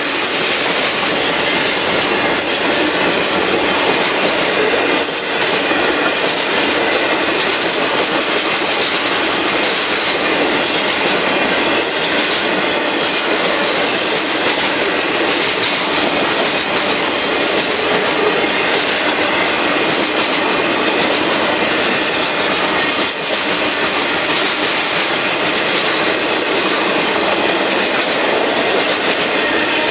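Freight train's cars rolling steadily past at close range: a loud, continuous rush of steel wheels on the rails.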